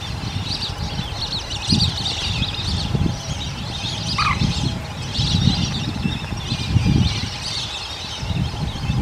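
A large flock of migratory waterbirds calling together on a lake, a dense, continuous chatter of many overlapping short, high calls, with low rumbling underneath.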